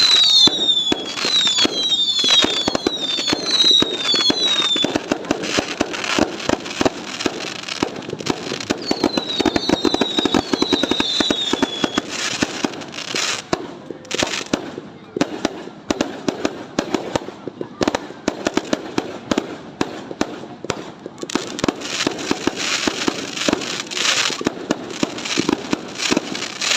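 New Year fireworks going off in a dense, continuous barrage of bangs and crackles. A run of short whistles, each falling in pitch, sounds over it in the first few seconds and again around ten seconds in.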